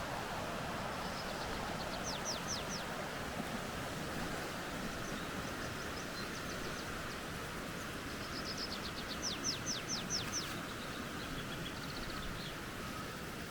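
A steady rush of flowing creek water, with a small songbird singing twice over it. Each song is a quick run of high notes that sweep downward; the second, about eight seconds in, is louder and is followed by a few softer high notes.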